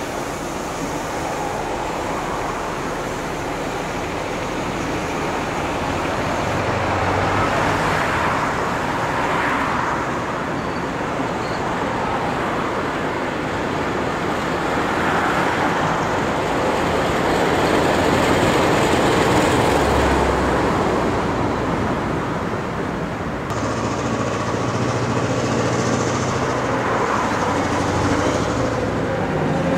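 Passenger train carriages rolling along the rails, a steady noise of wheels on track. About 23 seconds in the sound changes to a lower, steady drone as a diesel locomotive approaches.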